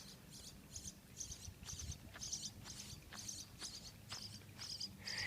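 Faint, high-pitched chirping outdoors: short chirps repeating two to three times a second, with a few faint clicks among them.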